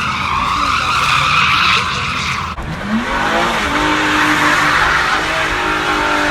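Car engine revving with tires squealing. The sound cuts abruptly about two and a half seconds in, then the engine pitch rises and holds over continued squealing.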